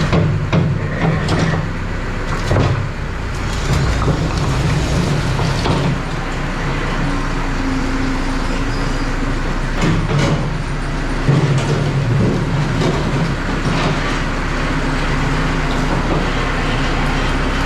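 Tractor engine running steadily while its front-loader bucket scoops firewood, with repeated knocks and clatter of logs against the bucket.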